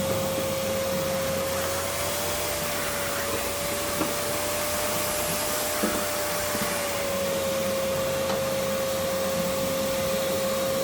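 Vacuum cleaner running steadily, sucking up the mess left from removing a truck's fuel tank; its motor pitch rises slightly for a few seconds in the middle and settles back, with two sharp clicks of debris, about four and six seconds in.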